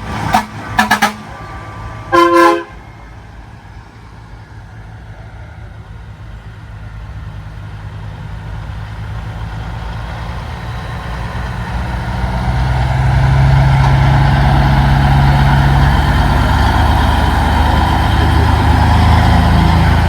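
Semi-truck horn sounding a few short toots, then one longer blast about two seconds in. A big-rig diesel engine then grows steadily louder as the truck approaches, staying loud from about thirteen seconds in.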